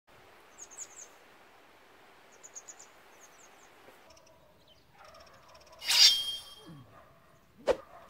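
A small bird chirping in quick runs of four or five high notes, about half a second in and again around two and a half seconds, over a faint steady outdoor hiss. About six seconds in comes the loudest sound, a harsh noisy burst lasting about half a second, and a sharp click comes just before the end.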